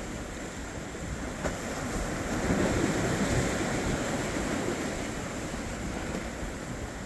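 Wind and rushing water from waves, swelling louder for a couple of seconds in the middle, then easing back.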